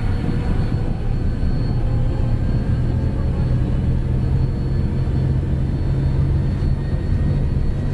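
Cockpit noise of an Embraer Phenom 100 light jet accelerating down the runway at takeoff thrust: a steady low rumble from its twin turbofan engines and the roll, with a faint steady high whine above it.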